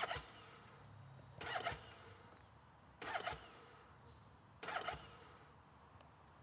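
A Triumph Scrambler 900 being cranked in four brief stabs of the starter, evenly spaced, without the engine catching: a hard start.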